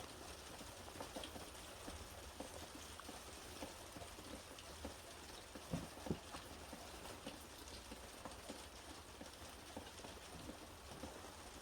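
Faint, irregular patter and ticking of light rain drops, with a couple of slightly louder ticks about six seconds in.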